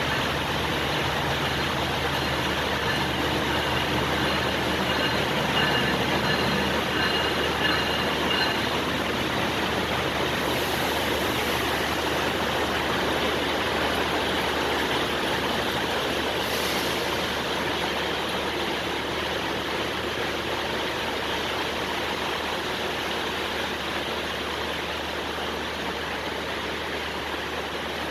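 A train running through a station, a steady rushing noise of wheels on rails, with faint high ringing tones in the first eight seconds or so, easing off slightly toward the end.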